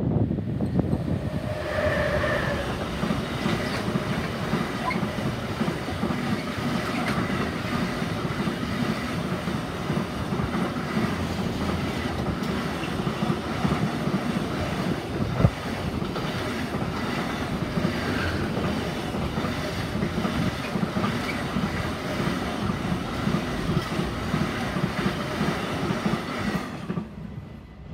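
Electric-hauled container freight train passing close by: loudest as the locomotive goes past at the start, then a steady rumble of loaded container wagons on the rails with a regular clickety-clack. A single sharper clack comes about halfway, and the sound drops away quickly as the last wagon passes near the end.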